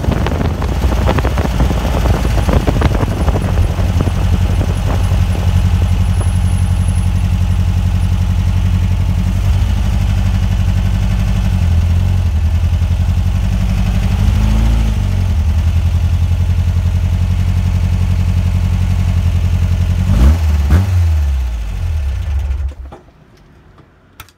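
Tuned air-cooled VW Beetle flat-four, a 2007cc engine on Weber 48 IDA carburettors, running under way with wind noise on the microphone. Its revs dip and recover about halfway through and rise and fall again near the end, then the sound drops away.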